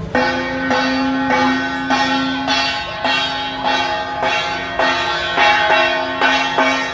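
Metal percussion struck in a steady beat, about two strokes a second, each stroke ringing like a bell, over a steady held tone.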